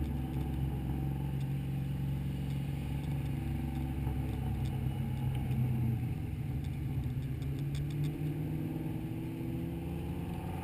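Mustang V8 engine and exhaust heard from inside the car, running at a steady low drone with only slight swells in pitch.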